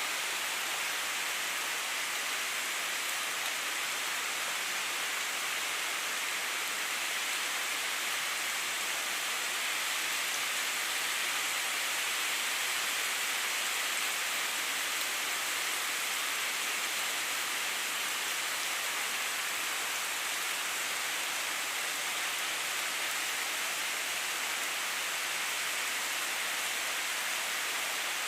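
Steady rain falling in a forest: an even, unbroken hiss with no distinct drops, thunder or other events.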